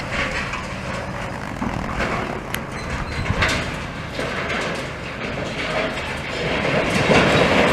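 Demolition machinery working: a diesel engine drones low and steady under irregular clanking and clattering of metal and rubble, louder near the end.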